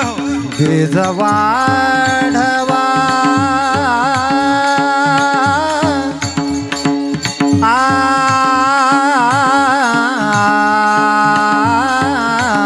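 Devotional kirtan music: a singer holds long, wavering ornamented notes without clear words, over a steady drone, with drum beats keeping the rhythm.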